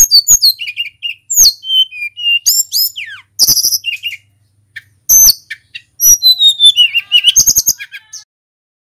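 Tledekan gunung singing a fast, varied run of high whistled notes and trills, with a long falling whistled phrase about six seconds in; the song stops shortly before the end.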